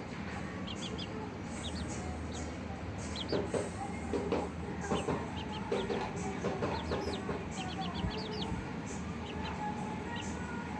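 Light Sussex chickens clucking, a run of short clucks in the middle, with quick high peeps scattered throughout.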